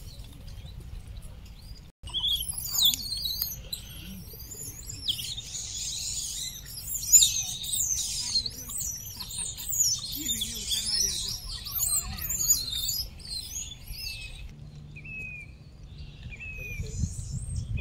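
Small birds chirping and twittering busily, many calls overlapping, thinning out near the end to a few short falling notes repeated about every second and a half, over a low steady rumble.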